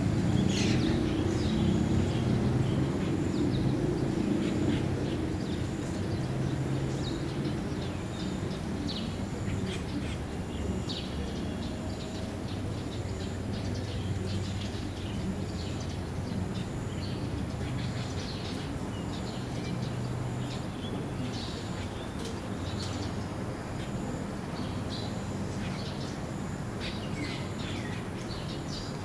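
Birds chirping in short, scattered calls over a steady low rumble; the rumble is louder for the first few seconds.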